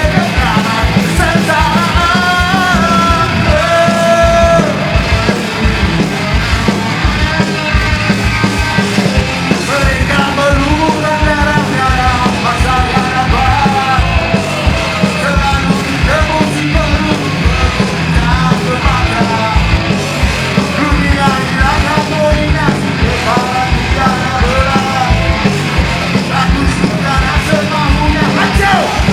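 Punk rock band playing live: a fast song with driving, rapid drumming under a shouted lead vocal.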